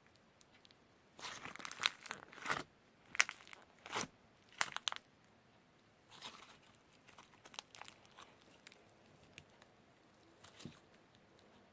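Crinkling and rustling in irregular bursts, densest and loudest for a few seconds, then fainter and sparser crackles.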